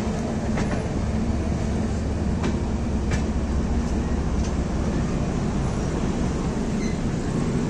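Passenger train running: a steady rumble and hum with a few faint clicks from the wheels.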